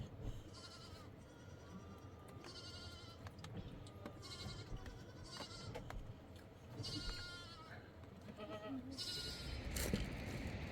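Small livestock bleating: about six short, high-pitched bleats spaced through the stretch, with a sharp click near the end.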